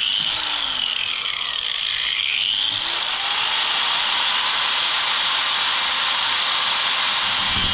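Handheld power tool cutting sheet steel, a continuous high whine whose pitch drops under load in the first couple of seconds, recovers, then runs steady.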